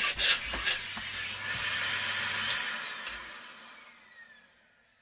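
An electric motor appliance runs with a rushing air noise and a few knocks. It is switched off about halfway through and its whine falls away as the motor spins down.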